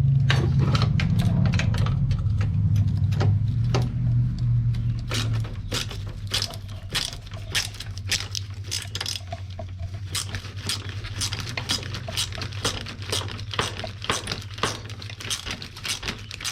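Socket ratchet clicking in short irregular runs as it is worked on the engine's bracket bolts, with light metal clatter of tools, over a steady low hum that eases a little about five seconds in.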